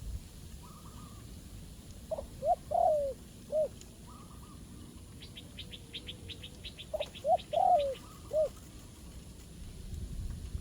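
Spotted dove cooing: two four-note phrases about five seconds apart. Between them a small bird gives a fast, high chirping trill, over a low rumble of wind.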